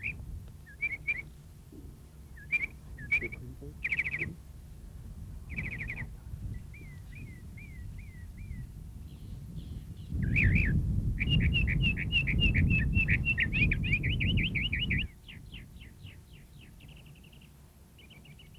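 Small birds chirping: short calls repeated every second or so, then a fast run of chirps in the middle. A loud low rumble sits under the chirps for about five seconds in the middle, then drops away.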